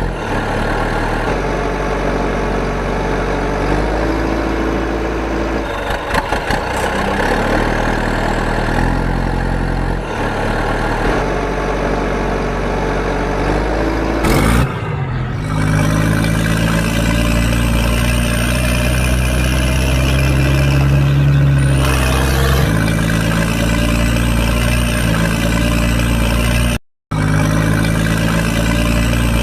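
Cartoon tractor engine sound effect running steadily, its pitch shifting in steps, with a brief rising sweep about halfway through and a short dropout near the end.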